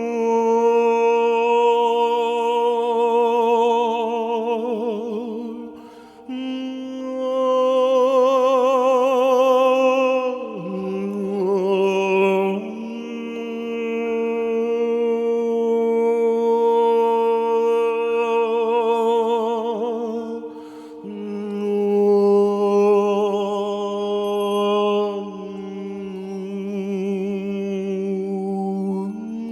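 Layered wordless vocal toning for sound healing: long held notes with a wavering vibrato over a steady drone, the upper voices moving to new pitches every few seconds.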